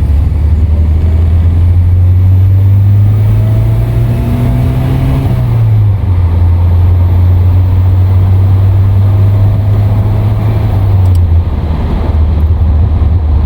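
Volvo car engine under hard acceleration on a test drive. Its note climbs, drops at an upshift about five and a half seconds in, then climbs again and drops at a second shift near eleven seconds.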